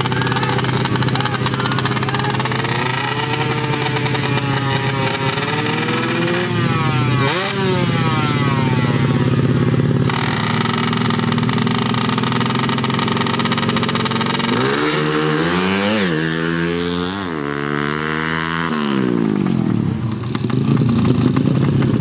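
Small-capacity underbone (bebek) drag motorcycle engines running loudly, revved up in quick rising sweeps around seven seconds in and again in a run of repeated revs from about fifteen to nineteen seconds.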